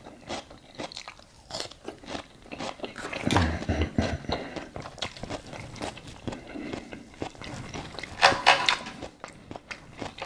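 A person crunching and chewing salad with raw red onion, close to the microphone. There is a string of small crisp crunches, with louder bites about three and a half seconds in and again about eight seconds in.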